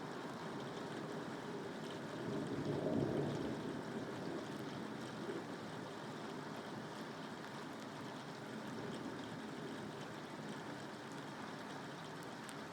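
Steady rain falling, an even rushing hiss, with a louder low surge about three seconds in that fades over the next second or so.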